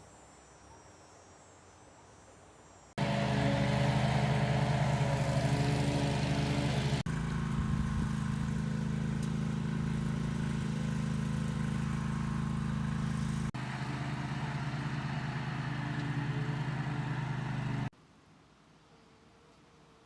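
An engine running steadily at a constant speed, heard in three spliced clips: it cuts in suddenly about three seconds in, changes abruptly twice, and cuts out near the end.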